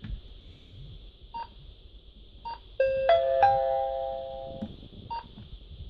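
Snooper S7000 truck sat nav making its electronic sounds: short single beeps, as from screen presses, four times, and about three seconds in a three-note rising chime whose notes ring on together for about a second and a half.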